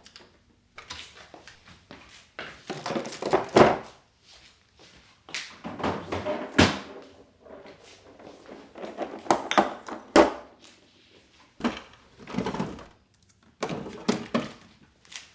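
Kitchen things being handled and set down: a run of thunks, knocks and clattering scrapes every second or so, with sharper knocks about six and a half and ten seconds in.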